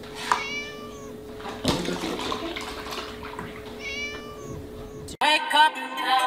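Kitten meowing twice, short high-pitched mews about half a second in and again about four seconds in, over a steady low hum, with a knock between them. Music starts suddenly about five seconds in.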